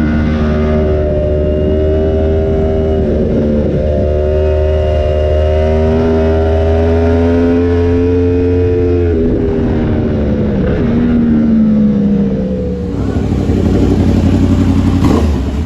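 Yamaha R1M's crossplane inline-four engine through an SC Project exhaust, heard onboard while riding. The engine note holds fairly steady with brief breaks near 3 and 9 seconds, falls around 11 seconds, rises again as the throttle opens, and cuts off suddenly at the end.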